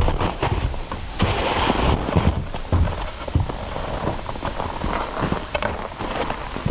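Footsteps crunching through snow: an uneven run of crackles and crunches, over low thumps and rumbles on the microphone.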